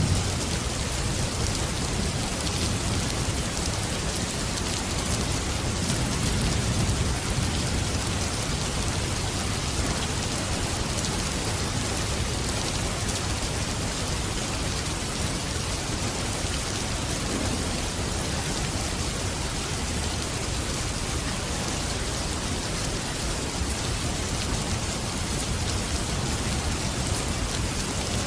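Steady rain falling in an even hiss, with soft, low rumbles of distant thunder about six seconds in and again more faintly around the middle.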